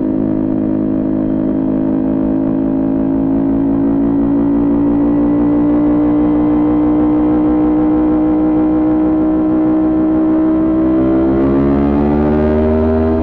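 Kawasaki Ninja 400 parallel-twin engine with a Coffman exhaust, running at a steady high engine speed under way. It then revs up steadily over the last couple of seconds as the bike accelerates.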